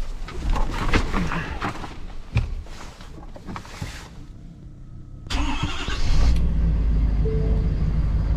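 Scattered clicks and knocks for about four seconds, then an abrupt change about five seconds in to a loud, steady low rumble of a vehicle engine running.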